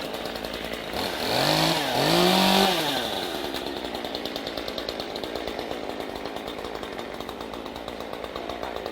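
Two-stroke chainsaw idling with an even pulse, revved up briefly twice about a second in, each blip rising and falling in pitch, then settling back to idle.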